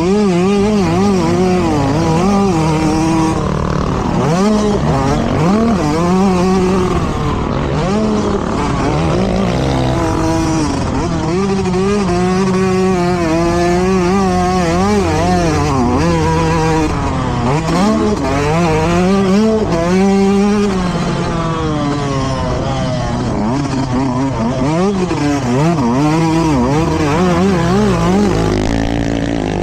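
Several motocross dirt bikes racing, their engines revving up and down as they accelerate and shift through the gears. The pitches overlap and keep rising and falling throughout.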